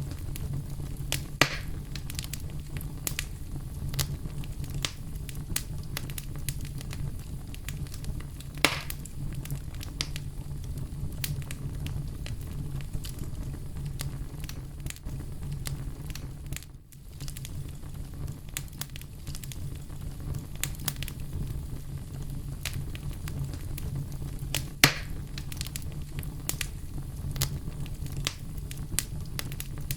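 Campfire burning: a steady low rumble under constant crackling, with three sharper, louder pops about 1.5, 9 and 25 seconds in. The sound dips out briefly about 17 seconds in.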